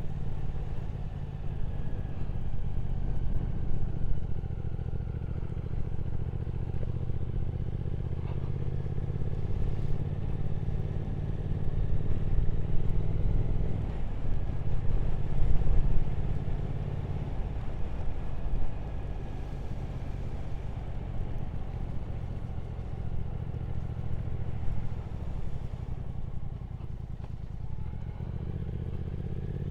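Triumph Speed Twin 1200's parallel-twin engine running steadily under way, with wind and road noise. Its note breaks briefly about halfway, then gets louder for a couple of seconds.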